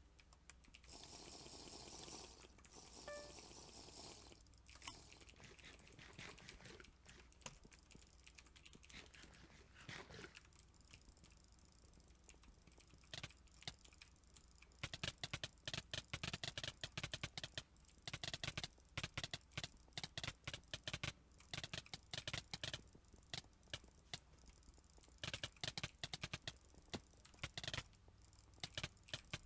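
Computer mouse button being jitter-clicked: runs of very fast clicks, coming in dense bursts that grow more frequent and louder from about halfway through.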